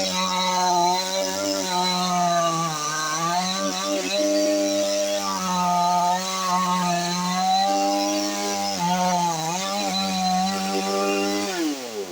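Chainsaw running at high revs while cutting through jackfruit wood. Its pitch sags briefly a few times under load, then falls away just before the end as the throttle is released.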